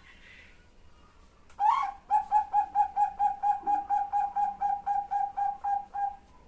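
Female zebra dove (Bangkok perkutut) calling for a male. One sharp opening note is followed by a fast, even run of short coos, about five a second, for about four seconds.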